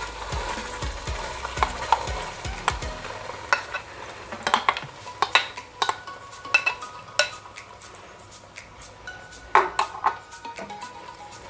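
A spoon stirring in a frying pan, knocking and clicking against the metal, over the sizzle of green chillies and ginger frying in butter. The sizzle is strongest in the first few seconds and eases after about three seconds, while the spoon clicks carry on.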